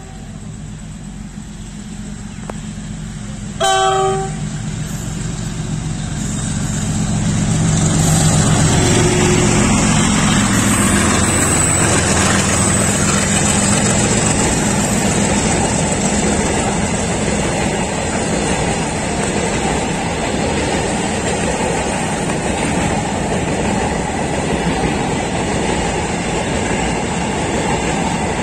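A WDG4G diesel freight locomotive gives one short horn blast about four seconds in, then grows louder as it draws near and passes. After that comes the steady rumble of a long train of loaded petrol tank wagons rolling by on the rails.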